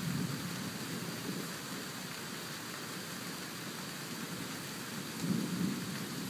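Steady hiss of rain, with a low rumble of thunder that swells briefly a little past the five-second mark.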